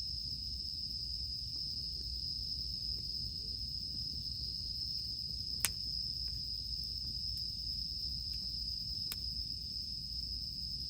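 Cicadas droning in one steady, high, unbroken tone over a campfire crackling, with a sharp pop about halfway through and another near the end.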